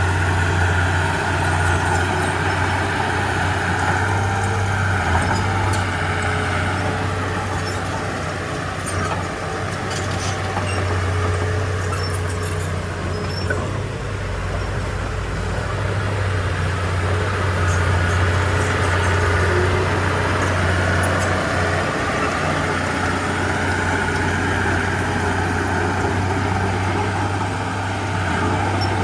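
Komatsu D31P bulldozer's diesel engine running steadily with a deep hum, its level easing off and building again a few times.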